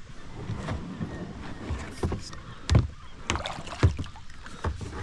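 A kayak paddle knocking and thumping against a kayak hull in irregular strokes, with water sloshing. It is the sound of a kayak being worked free in shallow water, and two knocks in the middle are the loudest.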